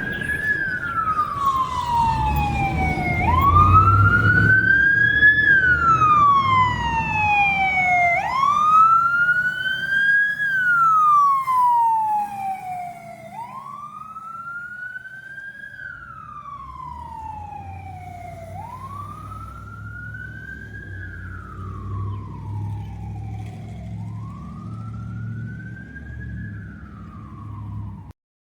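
Emergency vehicle siren on a slow wail, the pitch rising quickly and falling slowly about every five seconds, over a low engine rumble. It is loudest in the first dozen seconds, then drops and fades, and cuts off suddenly near the end.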